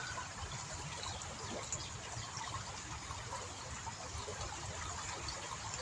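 Water of a small river trickling and gurgling steadily, with a low rumble underneath.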